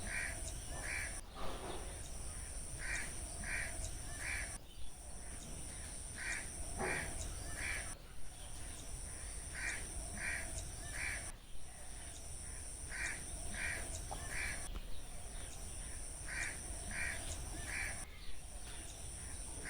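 A bird giving harsh, caw-like calls in sets of three quick notes, each set repeating about every three seconds, over a steady high-pitched insect drone and a low rumble.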